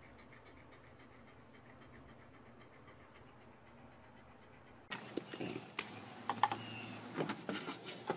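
A dog panting faintly and evenly. About five seconds in the sound changes and gets louder, with sharp knocks and clicks from a goat's hooves on a plywood board.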